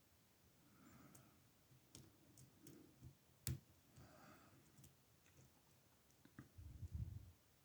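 Faint scattered clicks of lock picks working in the older Ruko oval cylinder of an ASSA padlock, with one sharper click about halfway through and a low handling rumble near the end.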